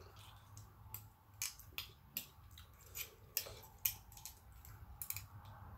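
A person chewing a mouthful of stir-fried clams: faint wet mouth clicks and smacks, scattered irregularly.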